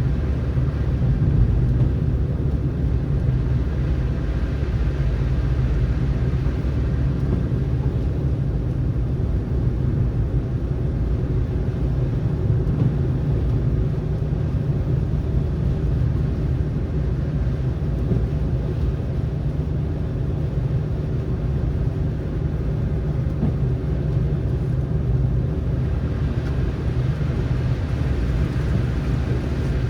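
Car driving along a road: a steady low rumble of tyres and engine with an even hiss, a little brighter in the last few seconds.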